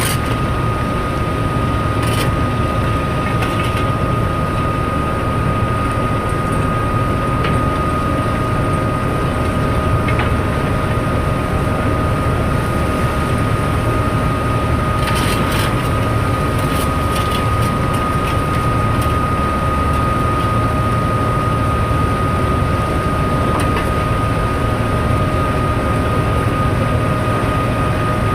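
Heavy machinery on a cargo ship during unloading, running steadily with a deep drone and a constant high whine, and a few brief clanks about two seconds in and again around the middle.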